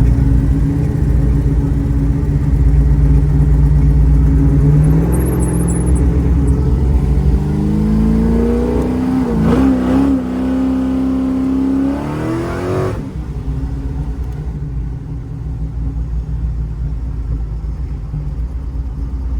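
1955 Chevy Bel Air V8 under way, its pitch climbing as the car accelerates, then cut back abruptly about two-thirds through to a lower, steady run as the throttle eases off.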